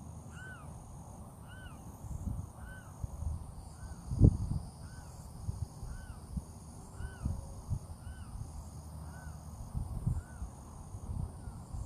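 A bird calling a long, evenly spaced series of short arched notes, about one a second, over a steady trill of insects. Low thumps of wind or handling on the microphone, the loudest about four seconds in.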